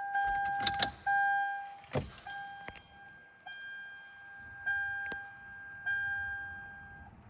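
A 2005 Lexus LS430's steady high electronic warning tone sounding in stretches of about a second with short breaks, over sharp clicks and a heavy thump about two seconds in. A low hum starts partway through, just before the engine is cranked.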